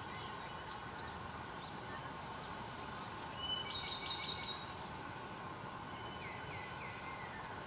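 Wild birds calling over a steady background hiss: a phrase of high whistled notes about three and a half seconds in, and a few short falling notes near the end.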